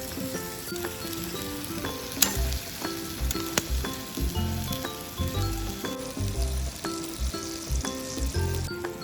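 Hamburger patty frying over a campfire, sizzling steadily and louder for a couple of seconds near the end, with a couple of sharp ticks. Background music of short plucked notes over a bass line plays throughout.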